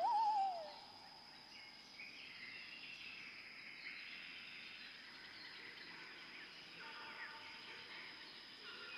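A single animal call in the first second that wavers and then falls in pitch, followed by faint outdoor background with faint bird chirps.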